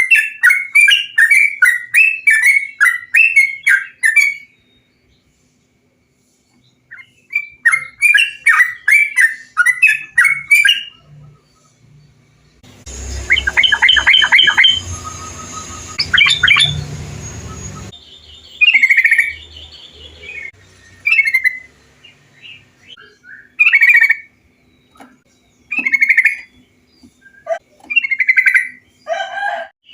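Trucukan bulbul song: two quick chattering runs of chirps, a short pause, then a stretch of chirps over a low rumble and hiss, followed by separate short call phrases every second or two.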